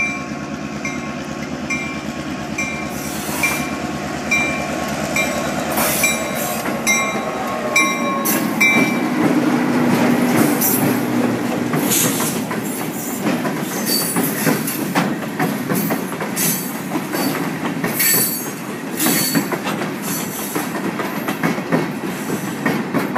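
Train passing at close range. A crossing bell dings about twice a second over the engine of an EMD GP-series ('Geep') diesel locomotive. After about nine seconds the bell is lost, and loaded flatcars roll by with wheels clicking over rail joints and short high squeals.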